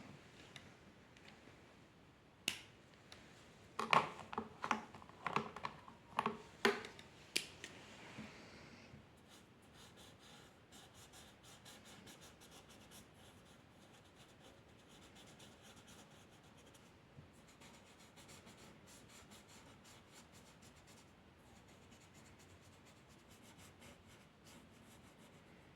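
A pen or pencil drawing on paper. A few sharp ticks and strokes in the first several seconds, then a long run of quick, light scratching strokes.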